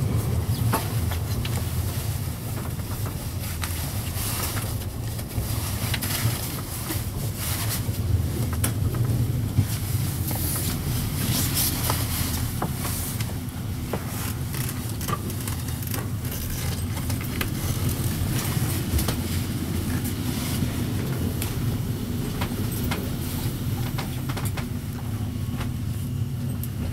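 Swiss Federal Railways passenger train running, heard from inside the carriage: a steady low rumble with scattered clicks and knocks throughout.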